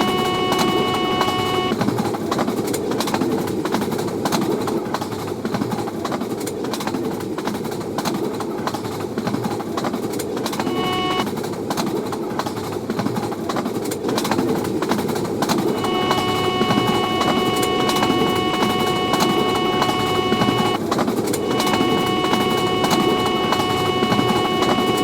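Long train passing at speed along the track: steady running noise with a rapid, continuous clatter of wheels over the rails. A steady, high multi-note tone sounds for the first two seconds, briefly again near the middle, and from about sixteen seconds to the end with a short break.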